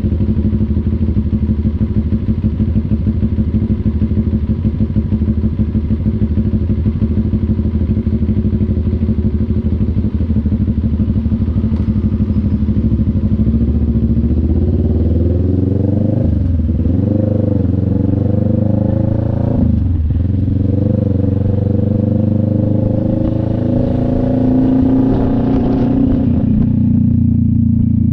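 CF Moto NK400's two-cylinder engine running with steady, even pulses for about the first half. Then its pitch rises and falls with the throttle, with a sudden drop about two-thirds of the way through like a gear change, then climbs again before easing off near the end.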